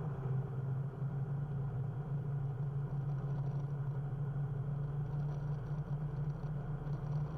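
Rotax engine of a SuperSTOL light aircraft droning steadily in the cockpit at landing-approach power, with full flaps out.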